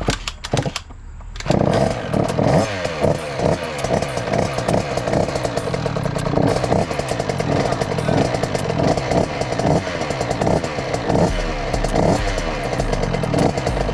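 Husqvarna 50cc two-stroke youth dirt bike engine being kick-started: a few knocks of the kick-starter, then it catches about a second and a half in and runs, revved up and down. It is a first start from cold, to warm the new engine through a heat cycle.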